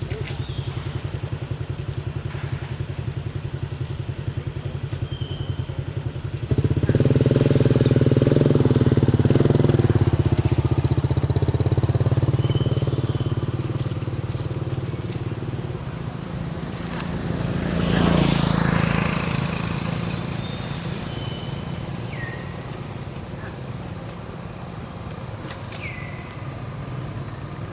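A vehicle engine running steadily. It turns abruptly louder about six seconds in and slowly fades, and a second broad swell like a vehicle passing peaks about eighteen seconds in. A few short high chirps sound over it.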